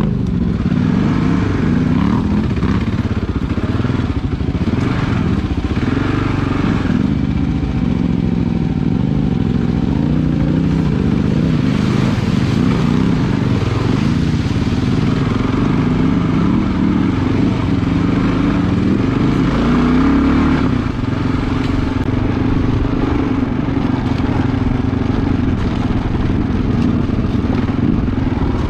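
Adventure motorcycle engine running as the bike is ridden, its pitch rising and falling with the throttle.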